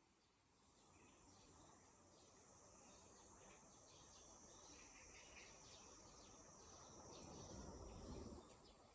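Faint summer outdoor ambience: a steady high-pitched insect drone, with many short bird chirps over it. A low rumble swells near the end and then fades.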